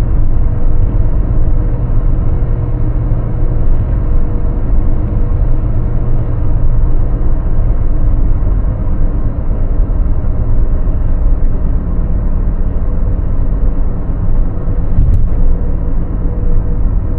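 A car driving: a steady, loud low rumble of engine and road noise.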